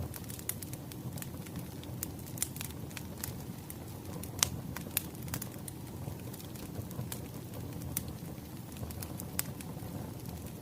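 Wood fire crackling: irregular sharp pops and snaps over a low steady rumble, with the loudest pops a little over four seconds in.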